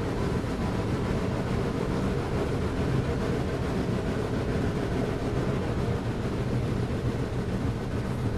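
Excursion train running steadily: a continuous noise with a low, even hum underneath.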